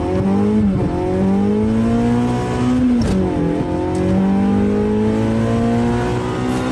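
Car engine accelerating hard through the gears, heard from inside the cabin: the note climbs in pitch and drops sharply at each upshift, a few times.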